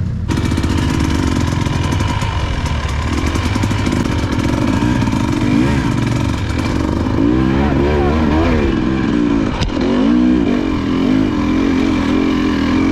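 Off-road motorcycle engine running under load, its pitch rising and falling repeatedly as the throttle is worked. A single sharp knock about three-quarters of the way in.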